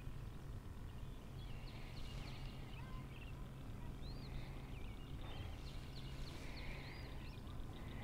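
Birds singing and chirping: many short rising and falling whistles, busiest about two seconds in and again just past the middle, over a steady low rumble.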